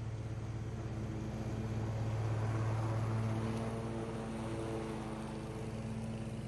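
Lawn mower engine running steadily, getting louder for a second or so about two seconds in, then easing back.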